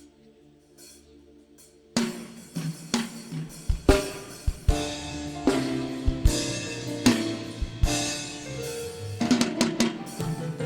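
Soft held chords, then about two seconds in a live church band comes in loudly, led by a drum kit with snare and bass-drum hits under sustained keyboard and bass notes.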